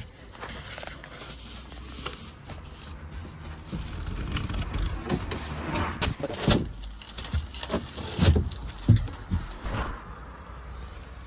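Handling noise from unpacking a boxed bicycle: irregular knocks, clicks, rustling and scraping, with the loudest knocks about two-thirds of the way through.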